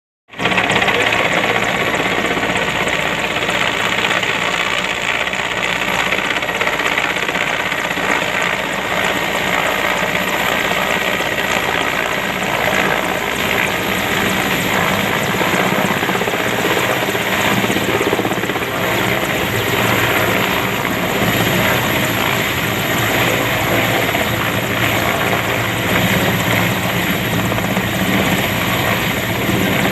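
Army helicopter's rotor and turbine engine running, a loud steady noise that holds evenly.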